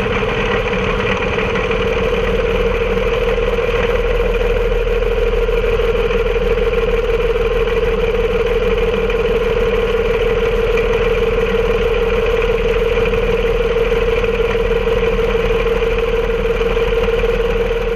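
Railroad locomotive's engine running steadily: an even drone with one strong constant tone and a low rumble beneath it, unchanging throughout.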